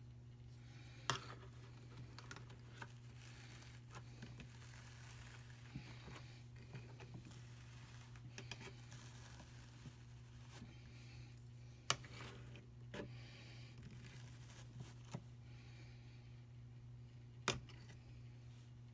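Hand-cranked drum carder with fine carding cloth brushing Targhee wool: a soft, continuous scratching and tearing of fibre on the carding teeth, broken by three sharp clicks.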